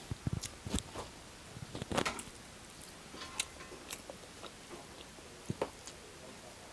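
Mouth sounds of a person chewing pork and rice eaten by hand, with irregular wet clicks and smacks that are loudest in the first two seconds, then fewer and softer.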